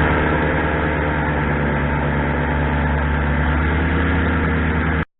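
Airboat's engine and propeller running steadily, a loud even hum with a low pitched note. It cuts off abruptly near the end.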